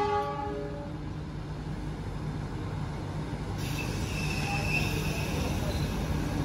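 A passenger train running, heard from aboard: a steady low rumble of the coaches rolling on the track. A train horn dies away in the first moment, and a faint thin squeal comes in a little past the middle.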